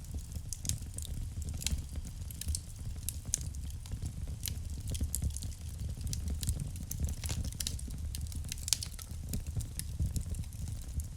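Wood fire burning in a fireplace: irregular sharp crackles and pops, several a second at varying loudness, over a steady low rumble of the flames.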